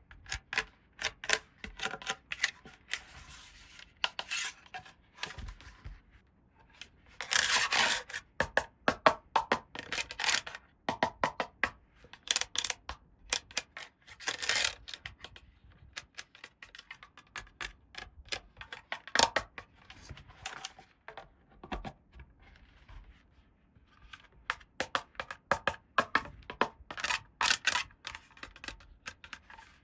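Small plastic toy pieces being handled, with many quick clicks and taps as they are set down and fitted together. A denser rustle of packaging comes about seven seconds in.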